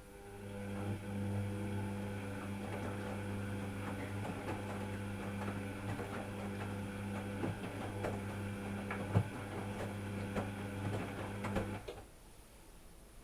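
Washing machine running: a steady motor hum with scattered clicks and knocks, which cuts off suddenly near the end.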